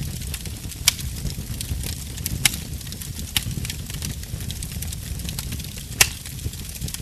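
Burning wood crackling over a steady low rumble of flame, with a stream of small snaps and a few louder pops, the sharpest about six seconds in.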